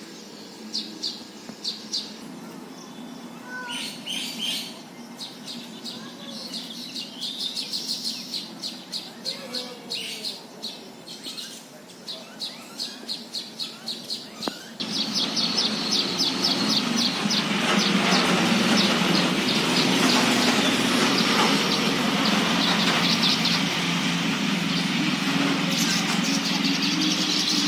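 Small birds chirping in quick series of short, high chirps. About halfway through the sound suddenly gets louder and busier, with many birds chirping almost continuously over a steady hiss.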